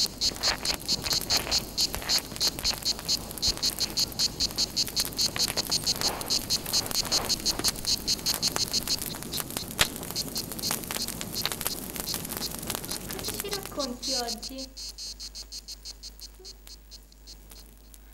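Crickets chirping in a steady rhythm, about three or four chirps a second, fading away towards the end.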